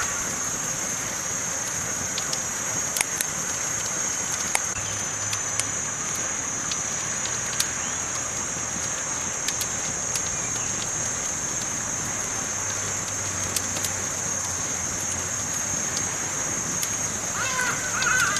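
Campfire burning: a steady hiss with scattered sharp pops and crackles. Near the end comes a short, wavering pitched call.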